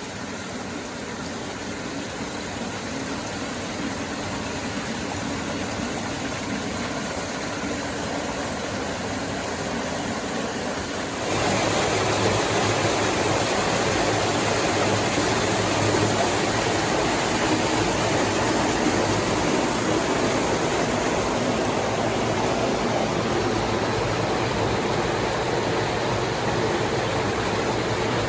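Steady rush of flowing water, growing slowly louder, with a sudden jump in level about eleven seconds in.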